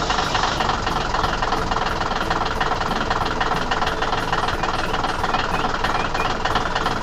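A heavy vehicle engine running steadily with a dense, rattling rumble.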